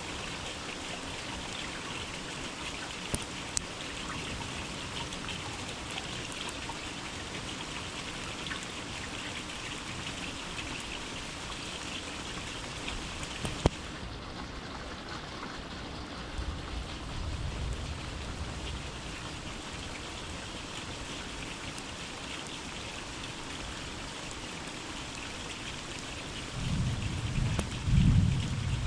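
Steady rain falling in a forest, with a few sharp ticks. A low rumble comes in partway through and again, louder, near the end.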